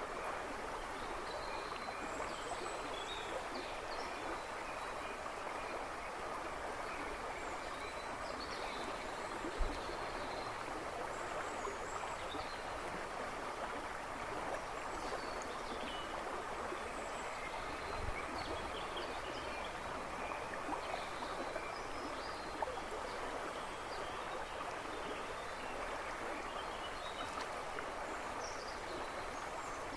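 River babbling and rushing steadily, with songbirds chirping now and then behind it. A brief low thump about a third of the way in, and another a little past halfway.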